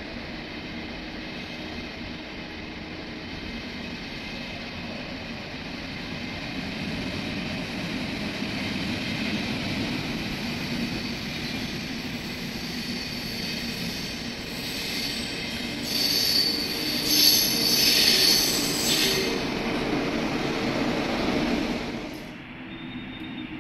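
A train's wheels rumbling along the rails, slowly growing louder, with loud high-pitched wheel squeal for a few seconds about two-thirds of the way through. The sound drops off abruptly near the end.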